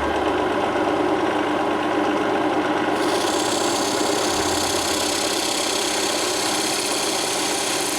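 Lathe running steadily under power, with a brighter hiss joining about three seconds in.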